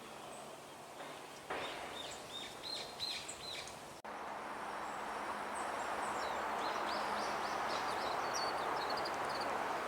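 Long-tailed tits calling with quick series of short high notes. About four seconds in, the sound cuts to Japanese white-eyes giving thin, higher chirps over a steady background hiss.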